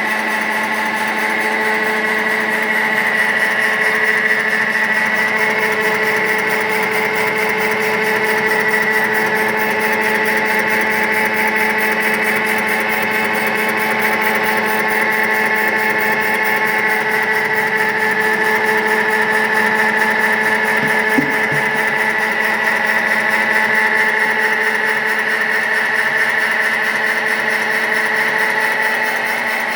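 Feed pellet machine running steadily, a constant mechanical hum with a steady high whine, and one brief click about 21 seconds in.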